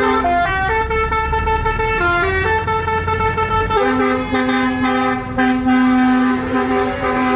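A tune of held notes that step from pitch to pitch, several sounding together, played from a vehicle in the parade over the low rumble of engines.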